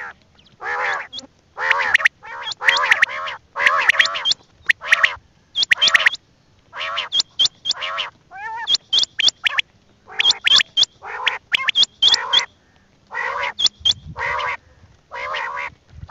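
Quail calling over and over: short nasal calls alternating with quick groups of two or three sharp high-pitched whistled notes, repeated every second or so.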